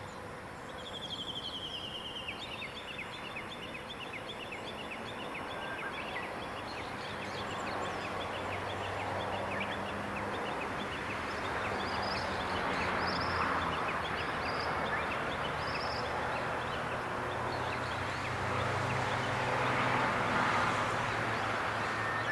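Wild birds calling in the morning, with a fast descending trill about a second in and scattered high short notes after it. Under them, a low steady rumble and hiss build up from about a third of the way in.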